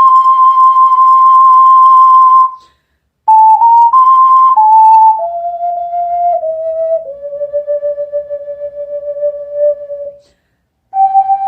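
Solo ocarina playing a slow melody: a long held note, a short breath, then a few notes stepping downward into another long held lower note, with a fresh note starting near the end. The notes are tongued with a soft 'du' attack.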